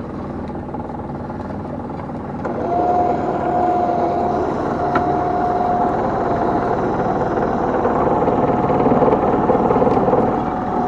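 Small fishing boat's engine and net-hauling gear running steadily while a gill net is hauled in. About two and a half seconds in the sound gets louder and a steady whine comes in.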